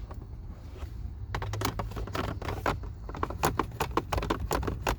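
Cabin air filter and its plastic housing being handled and fitted back in: a run of quick, irregular plastic clicks and scrapes that starts about a second in and gets busier towards the end.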